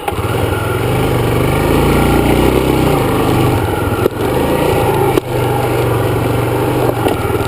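Dirt bike engine running as the bike is ridden, getting louder at the start, with two brief dips in sound about four and five seconds in.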